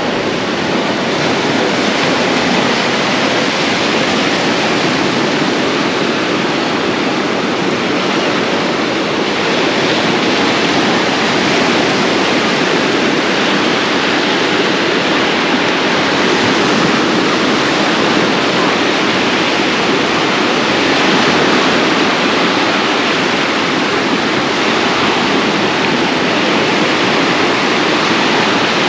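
Ocean surf at the beach: a steady, loud rush of breaking waves.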